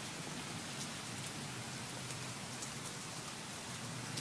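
Rain falling steadily on a hard surface, an even hiss with a few faint drop ticks.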